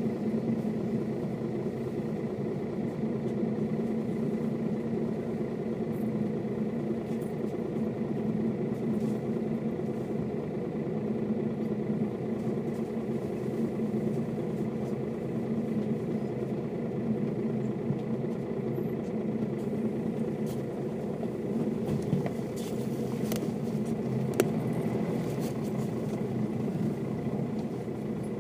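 Mercedes-Benz O407 city bus's diesel engine running steadily at an unchanging engine speed, with a few light clicks near the end.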